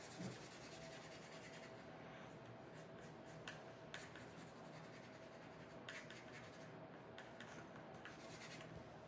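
Faint scratching of a paint marker's tip stroking over a small wooden cutout, with a few small ticks, over a faint steady hum.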